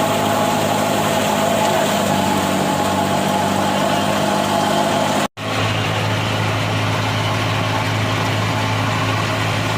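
Engine of heavy farm machinery running steadily at idle. The sound drops out for an instant just past halfway, then the engine continues with a stronger low hum.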